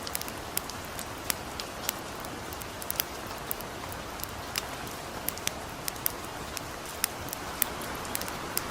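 Light rain falling steadily, mixed with the irregular sharp pops and crackles of a small campfire, about one or two a second.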